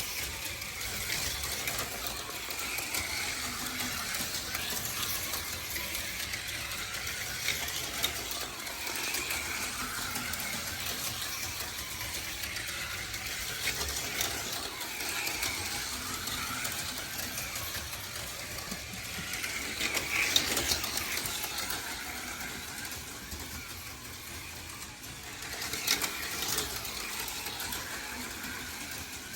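HO-scale slot cars racing around the track: small electric motors whining up and down in pitch every second or two as the cars speed up and slow, with a steady rattle of the cars on the plastic track. A few sharp clacks stand out, the loudest about 20 seconds in and again near 26 seconds.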